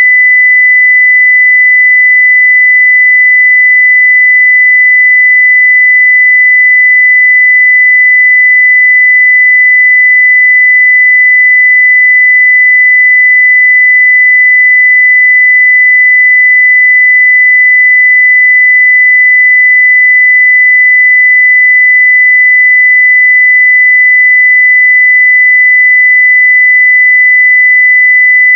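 A continuous 2 kHz sine-wave test tone at full scale (0 dB), a single steady pitch with no change.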